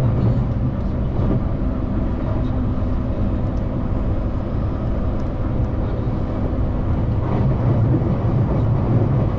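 Commuter electric train running between stations, heard inside the carriage: a steady low rumble of wheels and traction motors with faint steady tones.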